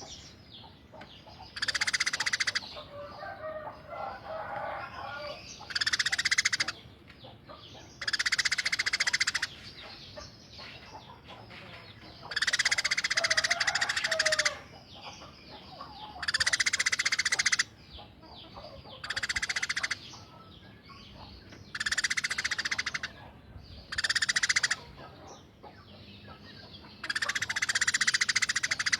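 Eurasian tree sparrow calling in loud bursts of rapid, harsh chattering notes, each burst one to two seconds long, about nine of them, with softer chirps in between.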